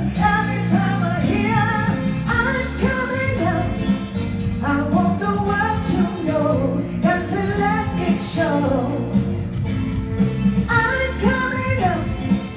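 A solo vocalist singing a melody live, over steady instrumental accompaniment.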